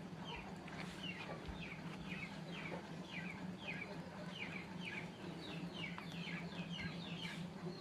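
Birds chirping: a steady run of short, high, falling chirps, about three a second, over a steady low hum.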